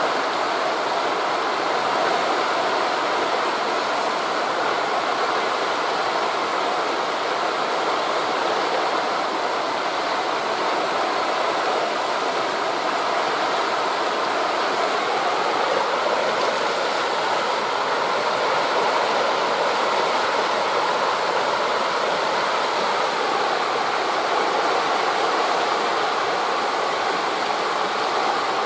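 Steady rushing of wind through forest leaves mixed with the surf of waves on a beach, an even hiss that swells only slightly.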